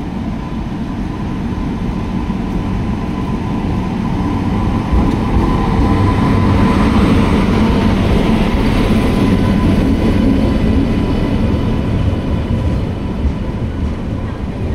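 Indian Railways electric locomotive hauling an express train past at low speed on arrival, its steady whine over a heavy rumble building to its loudest as the locomotive goes by about halfway through. The coaches follow, their wheels rumbling over the rails.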